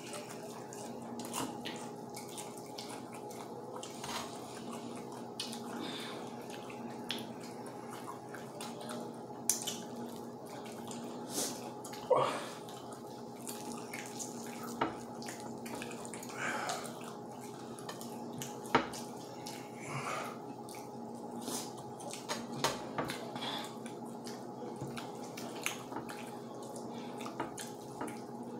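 Close, wet chewing and lip-smacking of people eating fried chicken with their fingers: scattered short clicks and smacks, a few sharper ones about twelve and nineteen seconds in, over a steady low hum.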